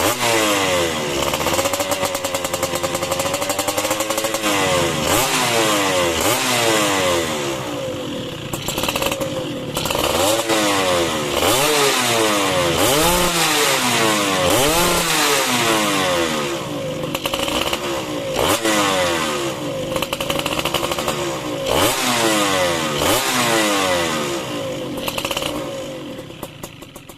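Yamaha F1ZR two-stroke motorcycle engine, fitted with a Yamaha RX-S piston at 0.50 oversize, revved up and down over and over, its pitch rising and falling with each blip of the throttle. The sound fades out near the end.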